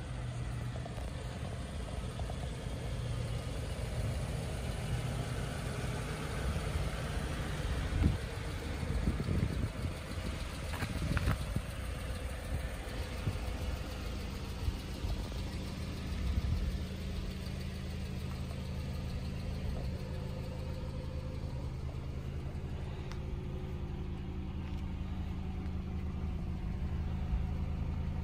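Car engine idling steadily, with a few short knocks about eight, eleven and sixteen seconds in.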